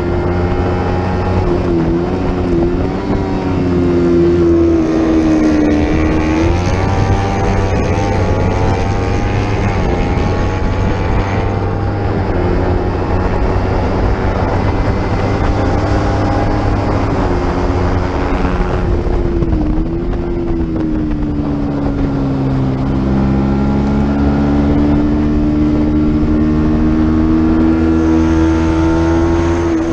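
Racing motorcycle engine running hard at race pace, its pitch dropping and climbing again several times as the bike shifts gears and slows for corners and then accelerates out of them.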